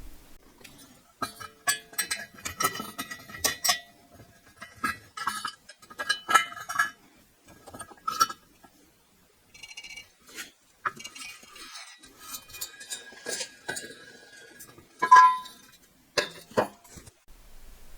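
Metal parts of a 1947 Coleman 500 camp stove clinking and clattering in irregular bursts as the stove is taken apart, with one short ringing metallic clink about fifteen seconds in.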